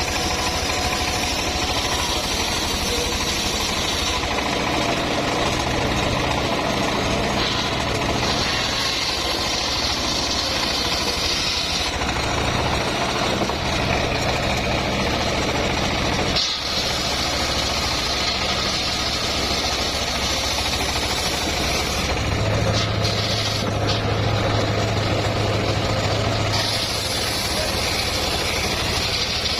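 Engine of a homemade circular sawmill running steadily, with its tone and hiss shifting every few seconds and a brief dip about halfway through.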